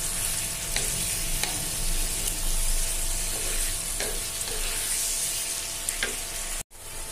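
Marinated chicken pieces sizzling in a spiced onion paste in a non-stick frying pan, with a steady high hiss and a few scrapes of a slotted spatula as they are stirred: the meat is being browned in the masala. The sound cuts out briefly near the end.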